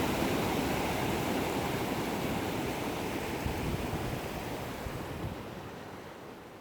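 Waterfall rushing steadily, a dense even roar of falling water that fades out gradually toward the end.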